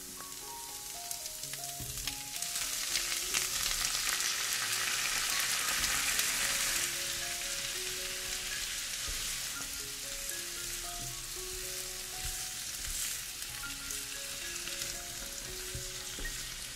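Diced tomatoes and onions sizzling in hot oil in a non-stick frying pan while a silicone spatula stirs them. The sizzle swells about two seconds in and eases a little toward the end.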